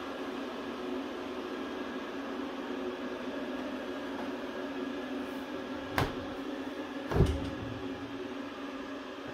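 A steady mechanical hum with two knocks, one about six seconds in and a louder one a second later.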